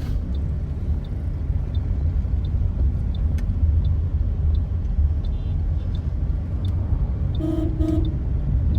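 Steady low rumble of a car running, with two short horn toots near the end.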